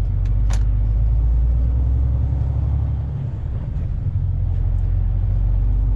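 Heavy truck's diesel engine running as heard from inside the cab, a steady low rumble as the lorry pulls out and drives on. The engine note dips briefly about three seconds in, then picks up again.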